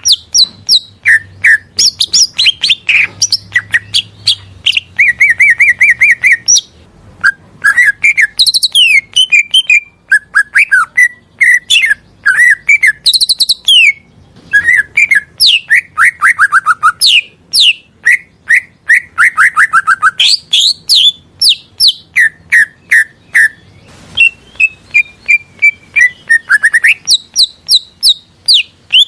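Greater green leafbird (cucak ijo) singing a loud, varied song of rapid chirps, whistles and falling trilled phrases, with a couple of brief pauses.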